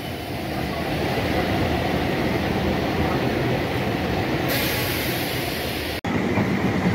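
Electric local train (EMU) running, heard from on board: a steady rumble of wheels on the track. A high hiss joins about four and a half seconds in. About six seconds in the sound cuts off abruptly and gives way to another local train rolling past alongside.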